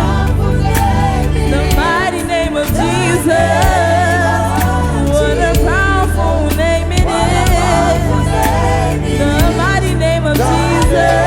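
Gospel praise and worship music performed live: singers over a band, with sustained bass notes and steady drum hits.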